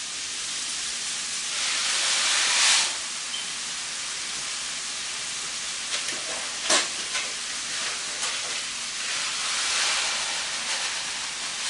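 Bacon, sausage and vegetables sizzling steadily in a hot pot of grease, swelling louder twice, with one sharp knock about two-thirds of the way through.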